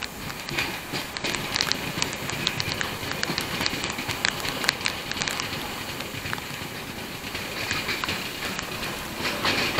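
Passenger train running along the track, heard from its own coach: a steady rolling rush of wheels on rail with many irregular sharp clicks.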